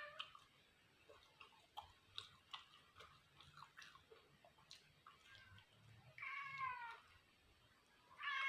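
Domestic cat meowing close by: one meow about six seconds in that falls in pitch, and another beginning near the end.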